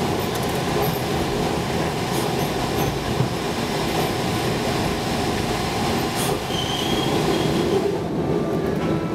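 Subway train running along the track, heard from inside the car as a steady rumble and rattle, with a brief high wheel squeal about six and a half seconds in.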